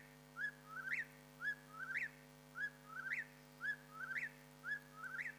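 A bird's call, a short rising whistle-like note followed by a quick stuttering phrase that climbs higher, the pair repeated evenly about once a second over a steady low hum.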